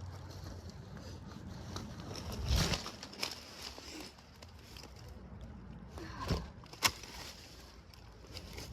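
A few scattered knocks and scrapes as a large board is shifted and handled, the sharpest about two and a half seconds in and again twice near six to seven seconds.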